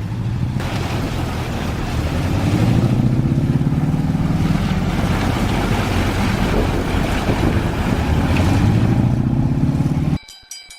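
A heavy engine runs loudly under a rushing noise, its pitch slowly rising and falling. It cuts off abruptly near the end.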